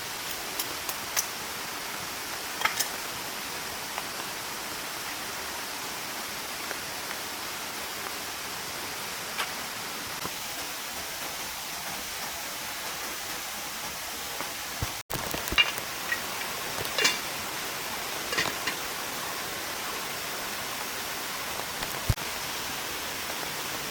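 Steady rushing of a mountain stream, with scattered light clicks and knocks over it, most of them in a cluster a little past the middle.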